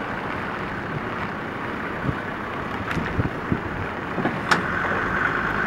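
Land Rover Defender's engine running steadily as it tows a stranded Fiat Panda out of floodwater on a strap.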